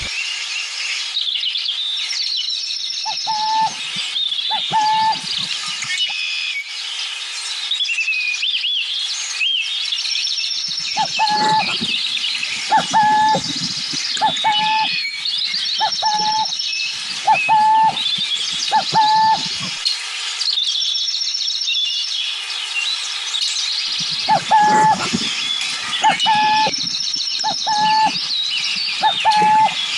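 Birds calling: a short call repeated in runs of several, with pauses between the runs, over a steady chatter of higher chirps and trills.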